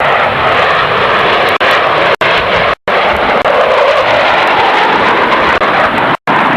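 Loud roar of an airplane flying past, its pitch dropping about halfway through. The sound cuts out for an instant a few times.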